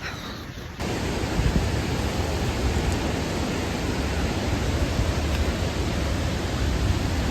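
Steady rushing roar of a large waterfall, starting abruptly about a second in, loud enough to drown out a voice.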